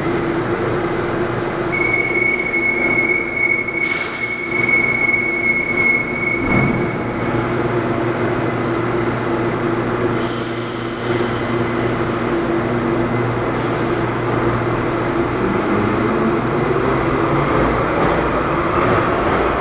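"Baltiets" metro train pulling out of the station, its electric traction drive sounding as a set of steady hums. A high steady tone sounds from about two seconds in to about seven. Near the end the tones rise in pitch as the train gathers speed.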